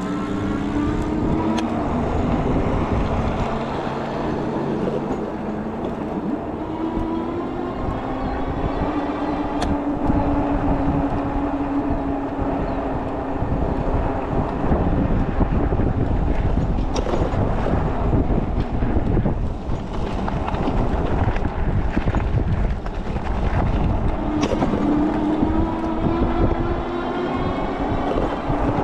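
Electric bike motor whining while riding, its pitch gliding up as it speeds up near the start and again late on, over a low rumble of wind on the microphone, with a few sharp ticks.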